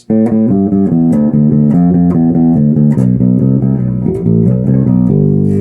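Zoot custom Wal-style passive electric bass played through its neck multi-coil pickup alone, coils wired in series: a quick run of plucked notes, ending on one note left ringing about five seconds in.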